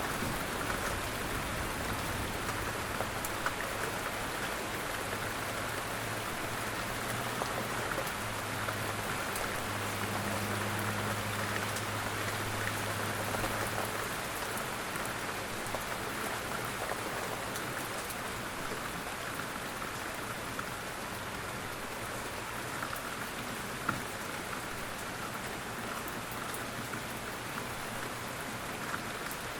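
Steady, gentle rainfall with scattered individual drop ticks. A faint low hum sits under it in the first half and fades out about halfway through.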